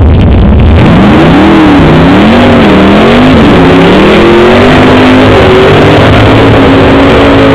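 Drag car's engine revving hard through a burnout, the rear tyres spinning and smoking. About a second in the pitch starts climbing and falling several times, then holds high and steady. Very loud, overloading the recording.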